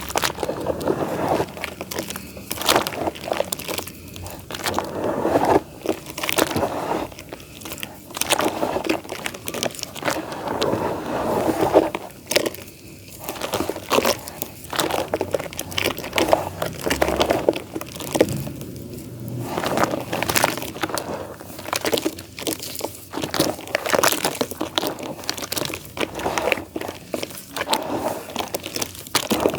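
Damp clay dirt crumbling: a continuous run of crunching and crackling as the lumps break apart, with a couple of short pauses.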